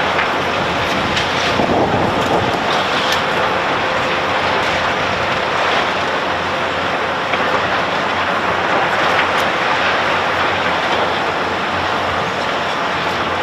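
Heavy construction machinery working: a loud, steady mechanical din with a few sharp clanks scattered through it.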